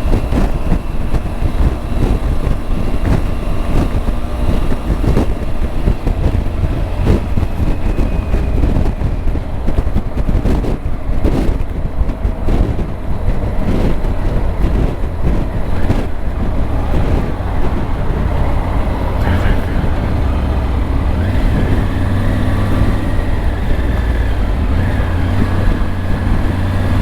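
Triumph Tiger 900's three-cylinder engine running steadily at highway speed, with a heavy low rush of wind over the rider's microphone.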